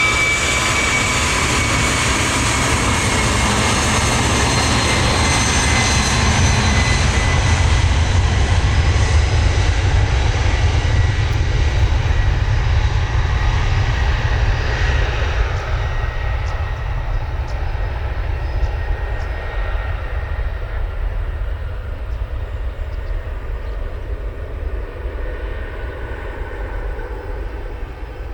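Jet airliner's engines passing by: a high engine whine that falls slightly in pitch and fades, under a low rumble that swells to its loudest about nine seconds in and then slowly dies away.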